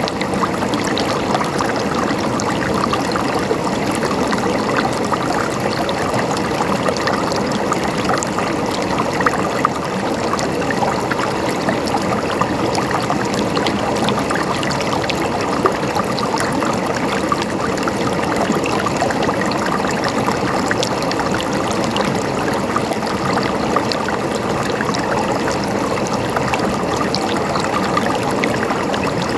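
Water flowing and gurgling in a stream, a steady babbling rush with many small splashes and trickles.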